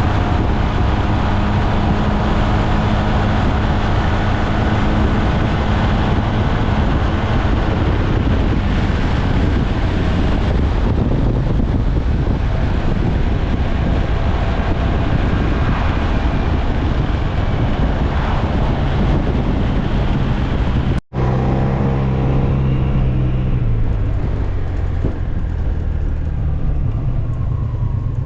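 SYM Maxsym TL 508 maxi-scooter on the move, its engine droning steadily under wind and road noise. About three quarters of the way through, the sound cuts out for an instant, and then the engine note drops as the scooter slows.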